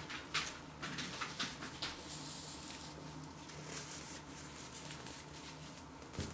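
A person chewing a mouthful of sandwich, with a run of small crunches and wet mouth clicks in the first two seconds and scattered ones after. A paper napkin rustles briefly as fingers are wiped on it.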